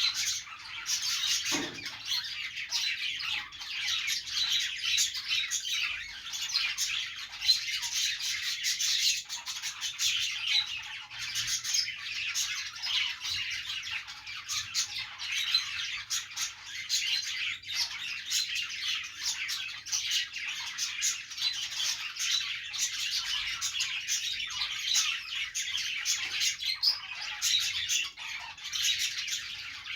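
Several budgerigars chattering and chirping without pause, many short calls overlapping into a dense warble with occasional sharper squawks.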